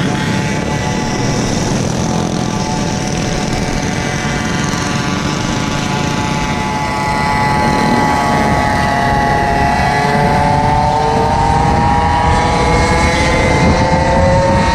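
Small gasoline engine running under load over a steady rush of wind noise. Its pitch climbs through the second half as it speeds up.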